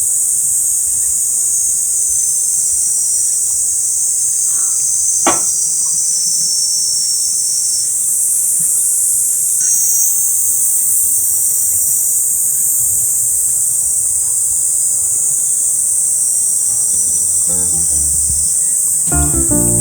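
Crickets chirring in a steady, high-pitched chorus, with one sharp click about five seconds in. Acoustic guitar music fades in near the end.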